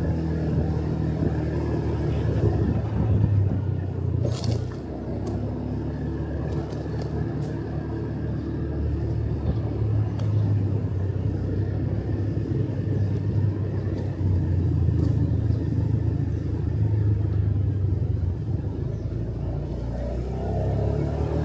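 Motorcycle engine running on the move, heard from the rider's seat, its low note shifting as the bike speeds up and eases off, over road noise. A sharp click about four seconds in, with a few fainter ticks after it.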